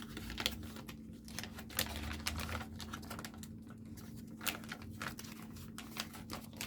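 Irregular light clicks and taps of plastic building-toy pieces and packaging being handled, several a second.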